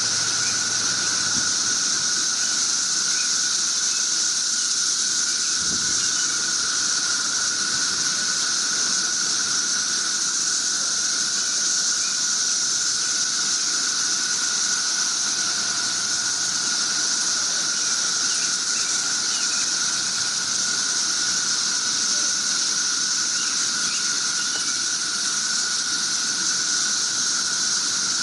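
A dense chorus of cicadas, a loud, steady high whine with a second, lower droning pitch beneath it.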